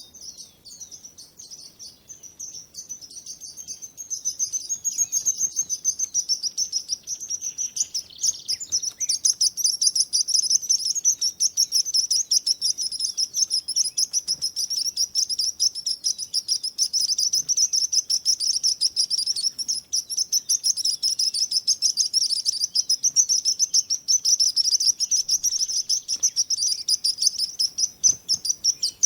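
Songbirds chirping and singing in quick, high-pitched trills, with many calls overlapping continuously. The chorus grows louder about four seconds in.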